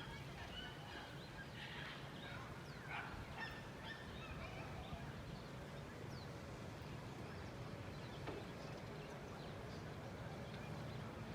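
Faint bird calls, short chirps and honk-like cries scattered through, over a steady low background rumble.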